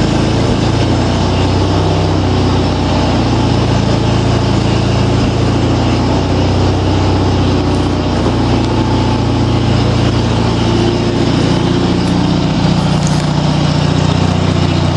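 Craftsman lawn tractor's opposed-twin engine running steadily after a cold start, a little rough after sitting all winter.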